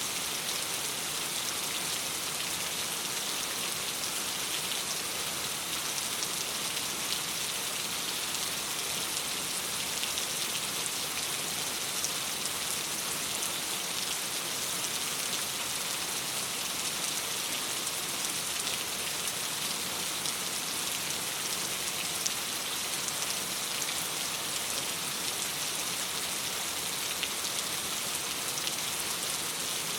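Steady rain falling on a surface, an even hiss with scattered small ticks of drops.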